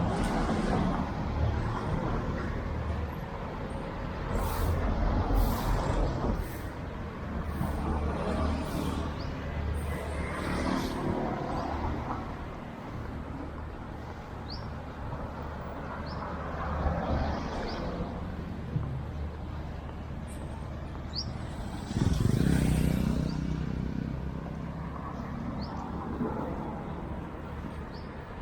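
Road traffic: cars, motorbikes and larger vehicles running and passing, rising and falling as each goes by, with one louder vehicle passing about two-thirds of the way through.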